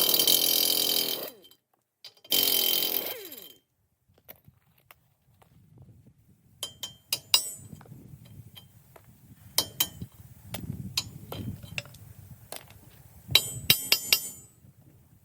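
Two loud rasping bursts at the start, then scattered sharp metallic clinks and knocks over a low shuffling rumble, with a quick run of clinks near the end: steel tools and tyre gear being handled.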